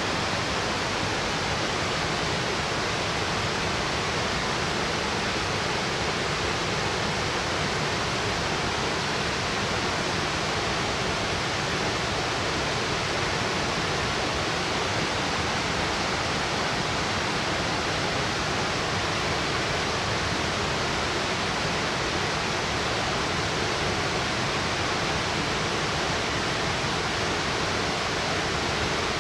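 Senpiro Falls, a 60 m plunge waterfall, pouring steadily: an even, unbroken rush of falling water.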